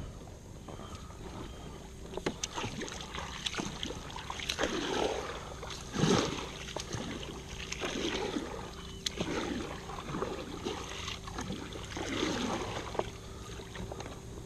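Water splashing and swishing around a kayak, a swish every second or two, with a few light knocks against the hull.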